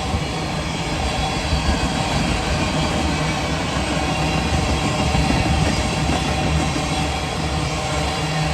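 Freight train cars rolling steadily past, wheels rumbling and clattering on the rails.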